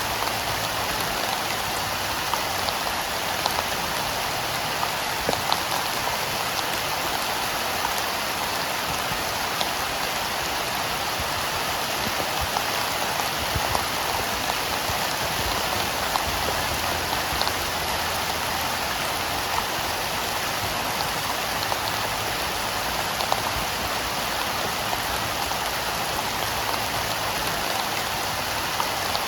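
Steady heavy rain falling, with many separate sharper drop hits scattered through it.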